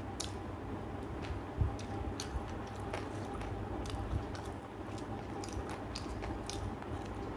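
A person chewing and biting pieces of chicken curry eaten by hand, with scattered small clicks and one louder knock about one and a half seconds in.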